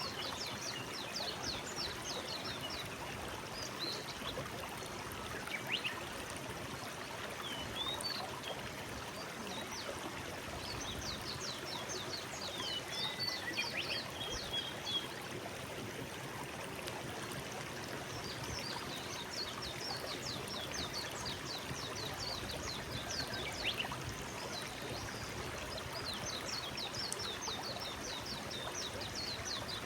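Forest stream flowing steadily, with small birds singing quick runs of high chirps over it at intervals.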